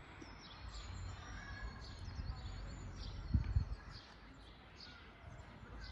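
Forest birds chirping and calling, many short high chirps throughout over a low rumble, with one low thump a little past the middle.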